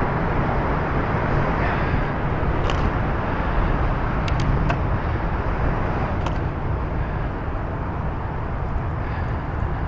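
Steady rushing wind and road noise on the microphone of a moving bicycle, with a few faint clicks.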